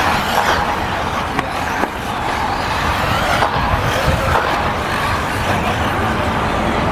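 Several electric RC buggies racing: a steady din of motor whine and tyres on the track, with faint rising and falling whines and a couple of short knocks.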